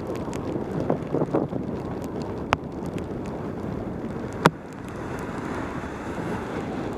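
Rushing wind noise on a helmet-mounted camera's microphone during a fast mountain-bike descent on a rain-soaked road. Two sharp knocks stand out, about two and a half and four and a half seconds in.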